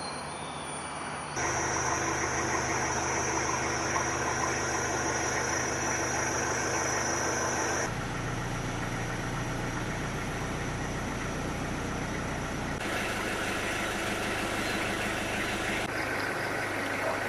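An engine running steadily, with an even rushing noise behind it. The sound changes abruptly a few times, as between separately recorded shots.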